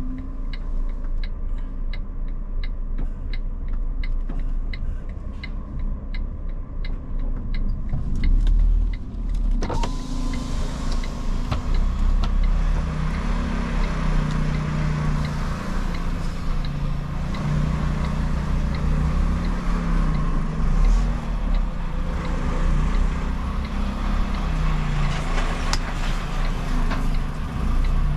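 Iveco truck's diesel engine running in the cab, with a regular ticking about twice a second from the turn-signal indicator for the first ten seconds or so. Then the truck gets under way: the engine note rises and shifts as it pulls, with road and tyre noise filling in.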